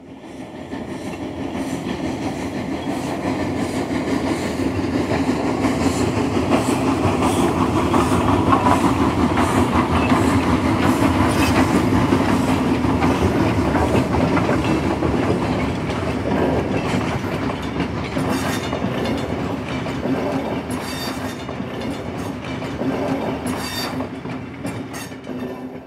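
A train rolling past, its wheels clicking over the rail joints. It grows louder over the first ten seconds or so, then slowly fades away.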